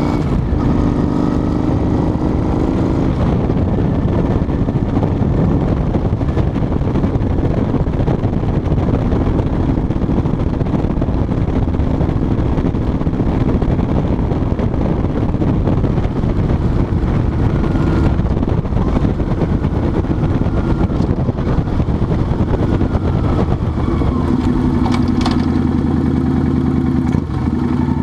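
Motorcycle engine running while riding, under a steady rush of noise; the engine note drops just after the start and climbs again in the last few seconds.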